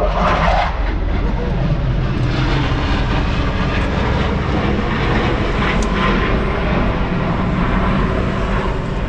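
Steady, loud vehicle rumble: a deep low drone with a broad rushing noise over it, holding even throughout.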